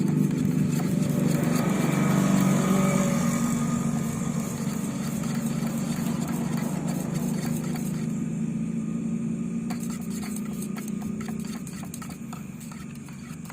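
A machine running steadily with a low hum and hiss. It comes in suddenly and fades gradually, with a scattering of clicks and rattles near the end.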